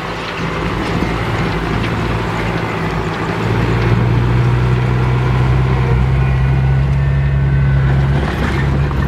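Heavy diesel engine of earthmoving machinery running steadily. Its low drone grows louder about three and a half seconds in and dips briefly near the end.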